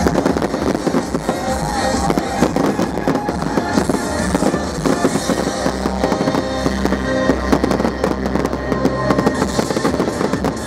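A fireworks display: many rapid bangs and crackles of exploding shells, over loud music playing at the same time.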